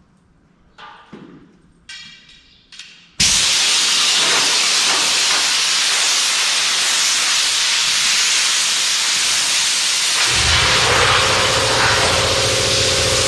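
Loud steady rush of blown air used for cleaning, cutting in suddenly after a few short blasts. About seven seconds later a motor starts running under it with a steady low hum.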